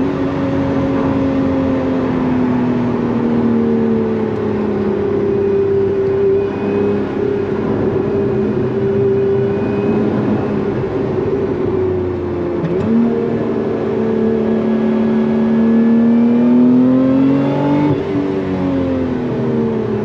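Lotus Emira's supercharged 3.5-litre V6 heard from inside the cabin, with road and wind noise, as the car slows and shifts down from fourth to second. The engine note sags slowly, jumps sharply about 13 seconds in, then climbs steadily for several seconds before falling back near the end.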